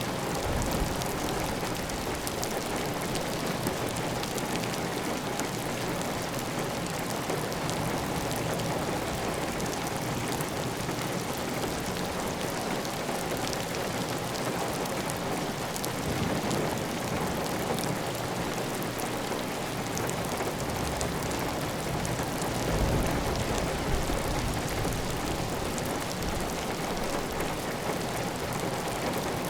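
Steady, heavy rain drumming on a tile roof, with water running off the roof edge. A low rumble swells briefly about halfway through and again near the end.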